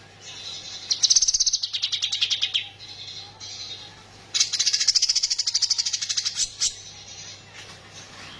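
Kinoi songbird singing two long, rapid-fire trills of sharp high notes, one about a second in and a second after the middle, with softer chirps between them. A steady low hum runs underneath.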